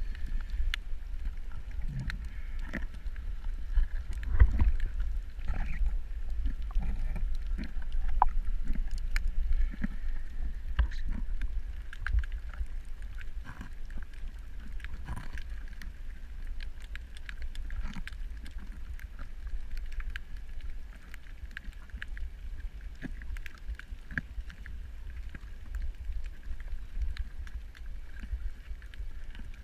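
Underwater ambience recorded on a camera: a steady low rumble of moving water with many scattered sharp clicks and crackles.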